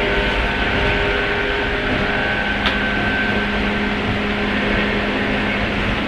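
Running sound heard inside a 103 series electric train motor car: steady rumble of wheels on rail with the level hum and whine of its MT55 traction motors and gearing, holding a steady speed. One brief sharp click sounds a little under halfway through.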